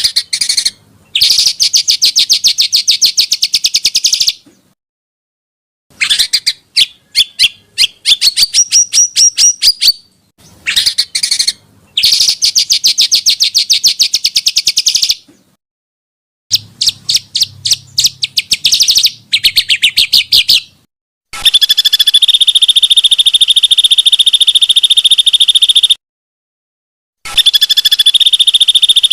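Recorded small songbirds singing in bursts of rapid, high-pitched trills and chattering phrases, each cut off abruptly by a silent gap as in an edited compilation. From about two-thirds of the way in, a long, even, very fast high trill takes over, broken once by a short silence.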